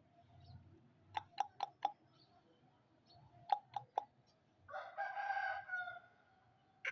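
An Aseel rooster gives one short, rough crow lasting just over a second, about two-thirds of the way in. Before it come two quick runs of sharp clicks, four and then three.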